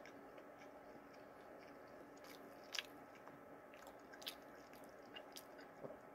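Faint chewing of a mouthful of stuffed pepper, with a few soft wet mouth clicks, the loudest about three seconds in and again a second and a half later, over a low steady room hum.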